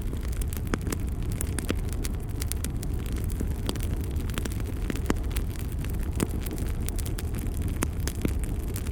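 Wood fire burning in a fireplace: a steady low rumble of flames with frequent sharp crackles and pops at irregular moments.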